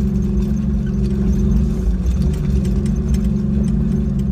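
Jeep Wrangler YJ engine running steadily while driving on a sandy track, its pitch dipping briefly about two seconds in, with wind buffeting the microphone and light jangling rattles in the cab.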